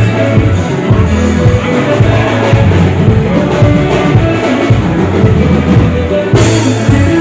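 Live band playing loudly: drum kit with bass drum keeping a steady beat under guitars and bass, without vocals.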